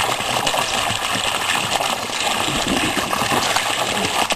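Waterfall pouring steadily: an even rush of falling, splashing water with a fine crackle.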